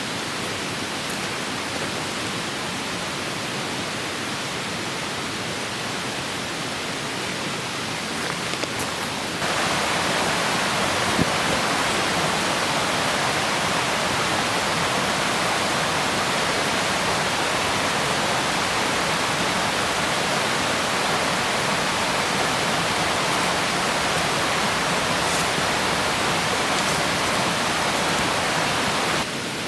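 Steady rushing of a clear stream's flowing water. It grows louder about nine seconds in and stays so until just before the end; a few faint clicks come around the change.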